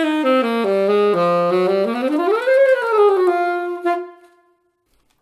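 Solo saxophone playing a short phrase: a run of descending notes, then a smooth glide up and back down, settling on a held note that fades out about four seconds in.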